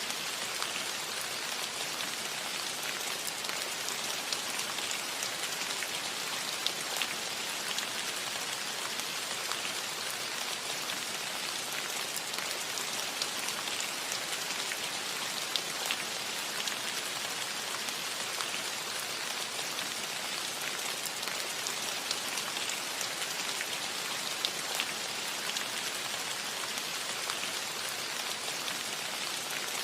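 Steady rain falling on a metal roof, a constant patter with scattered sharper drop ticks.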